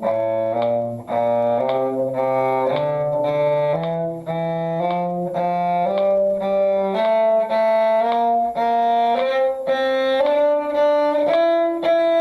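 Bowed string instruments playing an F major scale in eighth notes, the notes stepping steadily upward in pitch.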